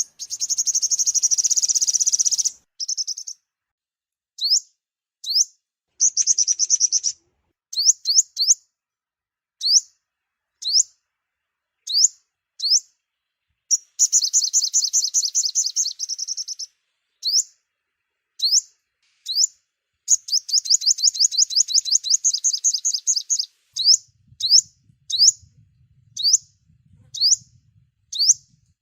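Sunbird song, the bird sold in Vietnam as the 'five-colour sunbird': sharp high single notes repeated about once a second, broken four times by rapid high trills lasting one to three seconds. It is a clean recording of the kind played as a lure for trapping.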